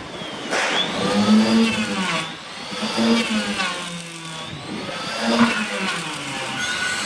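A small motor running, its pitch repeatedly dipping and recovering every second or two, as under changing load.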